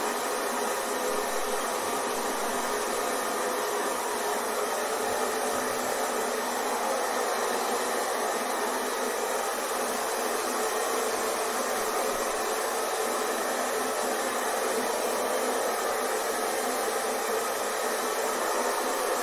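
Hair dryer running steadily: a constant rush of blown air and motor noise with no change in pitch or level, the kind used as white noise to soothe a baby to sleep.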